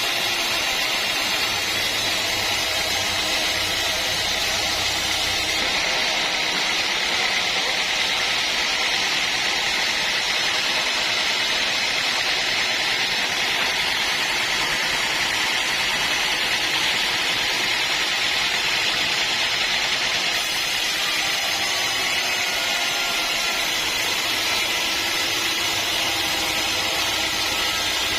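Sawmill machinery running steadily, a continuous mechanical noise with a hiss-like upper edge.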